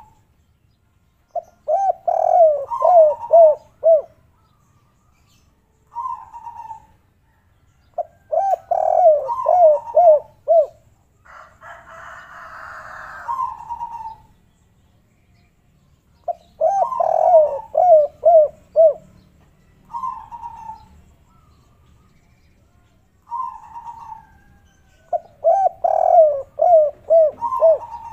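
Spotted dove cooing in its 'kuk 3' song. It sings four phrases of several quick, falling coo notes, with single shorter coos between them. A brief hiss is heard about halfway through.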